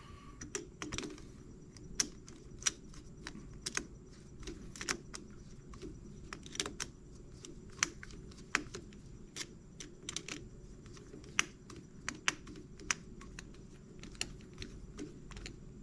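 Light, irregular clicks and taps of small carburetor parts and hand tools as the main jet is fitted and screwed in, about one or two clicks a second over a faint steady hum.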